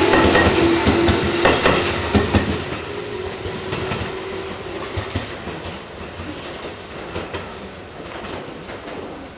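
Tobu 634-type Skytree Train electric multiple unit passing close and running away, its wheels clacking over the rail joints. A steady hum sounds in the first few seconds, and the sound fades steadily as the train moves off.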